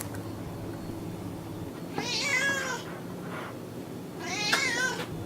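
A domestic cat meowing twice, each meow under a second long and about two seconds apart, the second rising then falling in pitch.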